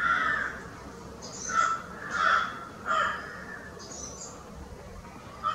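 Birds calling with harsh, repeated calls, several in the first three seconds and then fewer, with a few shorter, higher calls among them.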